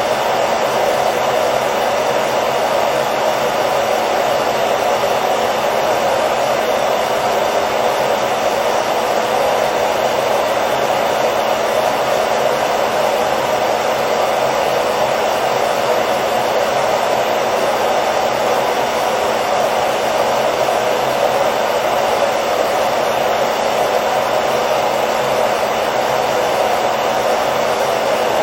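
Hair dryer running continuously at a constant setting: a steady rushing blow of air with a faint motor hum underneath, unchanging throughout, played as white noise for a baby's sleep.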